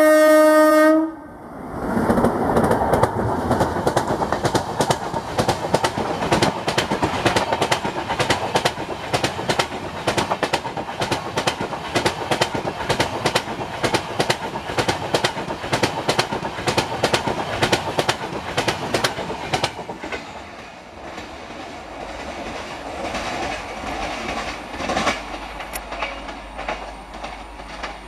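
WAP-7 electric locomotive's horn blown in one short steady blast, then the train running past at speed: passenger coach wheels clattering rapidly over rail joints for about twenty seconds before the sound drops away as the last coach recedes.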